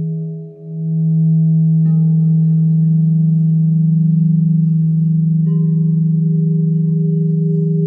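Crystal singing bowls ringing in overlapping sustained tones over a strong deep tone. A new bowl tone comes in about two seconds in and another about five and a half seconds in.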